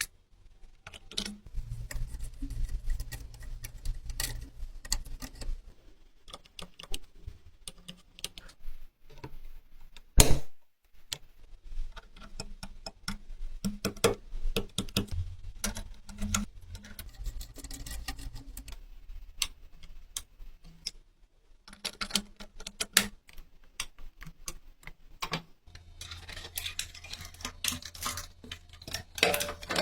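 Irregular light clicks and taps of small hard objects being handled, with one loud knock about ten seconds in and a low steady hum that comes and goes.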